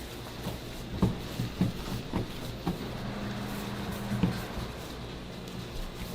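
A few irregular soft knocks and thumps of handling, with a brief steady hum about three seconds in.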